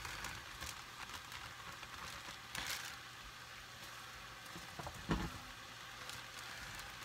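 Chicken sausage and vegetables sizzling faintly in olive oil in a soup pot, a steady crackle under the kale, with one sharp knock about five seconds in.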